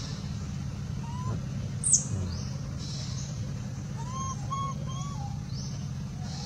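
Bird calls: short arched whistled notes, one and then three in quick succession about four seconds in, with faint higher chirps, over a steady low hum. A brief sharp high squeak about two seconds in is the loudest sound.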